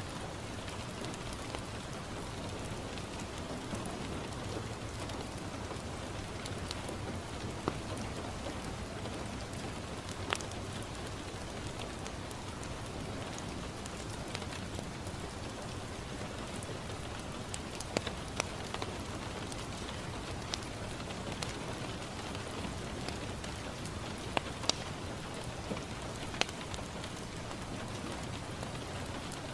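Steady rain falling on a window, an even rushing hiss, with a wood fire crackling: a few sharp pops here and there.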